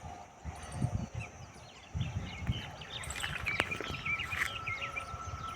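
Birds chirping outdoors, with low thumps of wind or handling on the microphone; a faint steady high tone comes in a little past halfway and holds.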